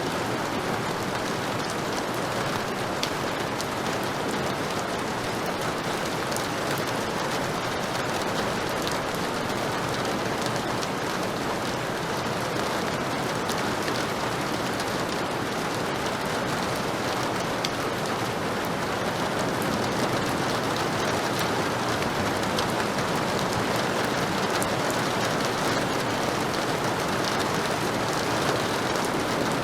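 Heavy rain falling steadily, a dense, even hiss of rain with scattered individual drops ticking on surfaces.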